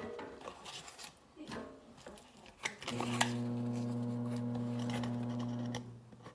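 Packing material rustling and rubbing as it is handled and pulled apart, then a steady low hum of one unchanging pitch for about three seconds, starting about halfway through.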